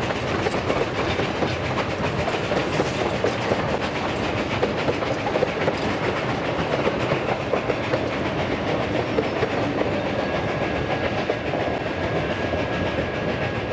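Durango & Silverton narrow-gauge train rolling past, a steady rumble of wheels on rail with many rapid clicks. A faint, steady, high squeal joins in the last few seconds.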